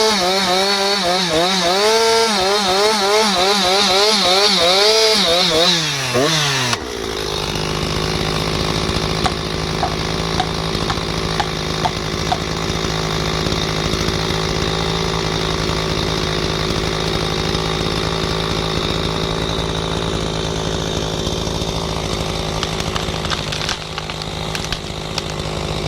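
Two-stroke chainsaw running at high revs, its pitch wavering up and down as it works through the wood. About seven seconds in, the sound switches abruptly to a steadier, slightly lower-pitched run that continues to the end.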